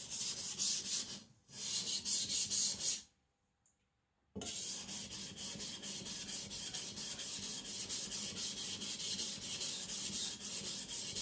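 Aogami carbon-steel gyuto blade stroked back and forth on a coarse 400-grit Naniwa Professional water stone, a wet rhythmic scraping at about three strokes a second while the blade sides are thinned. The strokes break off briefly about a second in, and the sound cuts out completely for about a second around three seconds in before the strokes resume.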